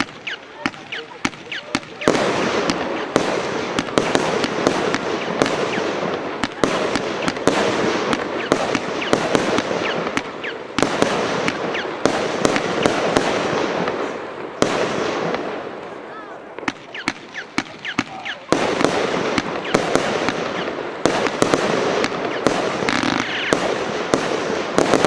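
A 100-shot compound fireworks battery firing: a rapid run of shot reports over dense crackling, with short lulls about eleven seconds in and again from about fifteen to eighteen seconds.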